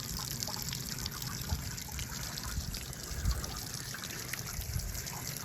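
Water trickling steadily from the Yard Bird chicken plucker's built-in watering system, with a few faint small ticks.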